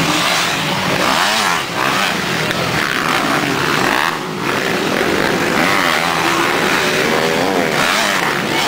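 Several motocross motorcycle engines running at once, their pitches rising and falling as they rev and shift, with a couple of brief dips as throttles close.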